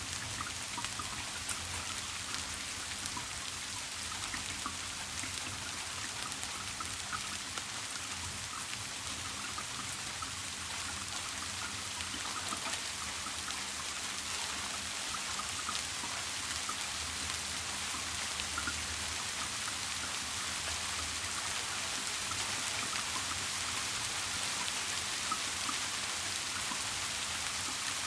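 Steady rain: an even hiss of falling drops with many small drips pattering throughout.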